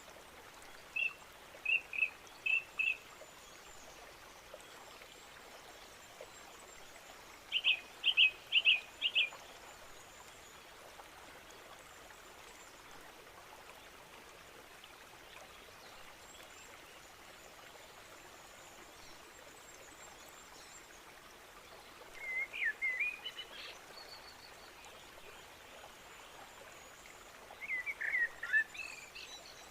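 Steady rush of flowing water with birds calling over it: two sets of four short, sharp repeated notes in the first ten seconds, then twittering, warbling phrases twice in the last third.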